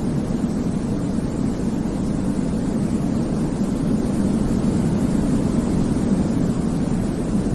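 Steady white noise for baby sleep with a deep, rumbly tone: an even hiss weighted toward the low end, without rhythm, pitch or change.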